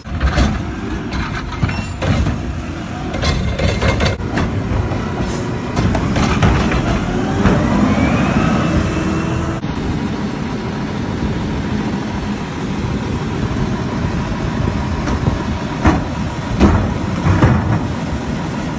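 Garbage truck running, with repeated metallic clanks and knocks over a steady machine noise, and a brief whine that rises and falls near the middle.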